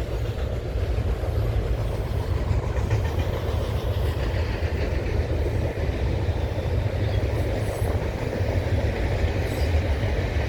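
Norfolk Southern intermodal freight train rolling past at close range: a steady rumble of its cars' wheels on the rails.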